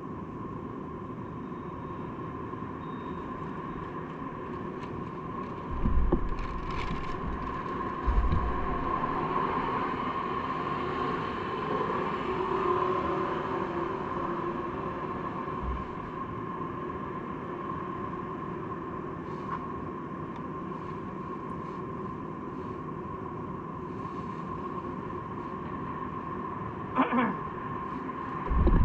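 Steady riding and street-traffic noise on a bicycle ride, with a constant hum throughout. Low thumps come about six and eight seconds in, and twice more near the end.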